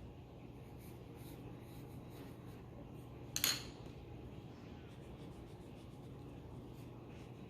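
Pencil scratching faintly on paper in short strokes over a low steady hum, with one brief, much louder sharp sound about three and a half seconds in.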